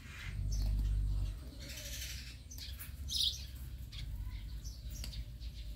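Birds chirping a few short high notes against a faint background, with a low rumble in the first second and a half.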